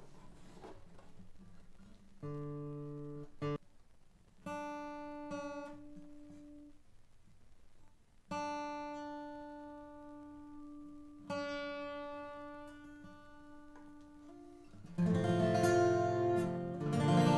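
A 12-string acoustic guitar, freshly restrung, being tuned: four single courses are plucked one at a time a few seconds apart and left to ring and fade, then strummed chords come in near the end. The new strings are still stretching and not yet holding pitch.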